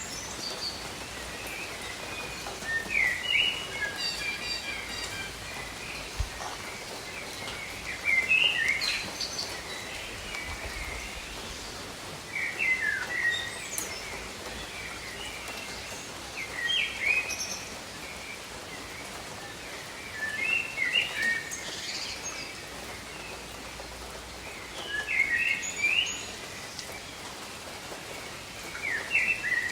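Steady rain falling over jungle, with a bird singing a short, quick song phrase over and over, about every four seconds.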